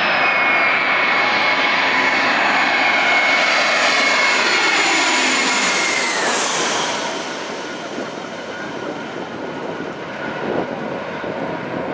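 Airbus A320's jet engines passing close by: a loud whine over a broad rush, the whine sliding down in pitch with a sharp drop about six seconds in as the aircraft goes past, then fading.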